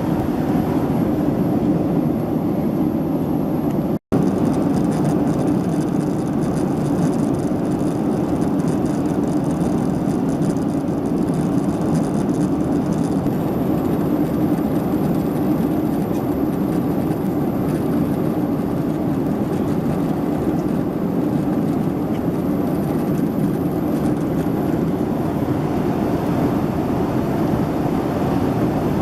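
Steady cabin noise of a Boeing 767-300ER: a low, even rumble of engines and airflow inside the passenger cabin, with a split-second break about four seconds in.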